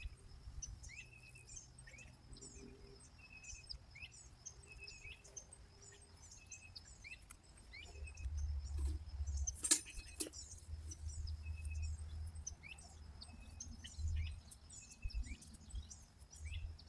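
Several small birds chirping and calling in short repeated notes, over a thin steady high tone. A single sharp click about ten seconds in, with low rumbles on and off from about eight seconds.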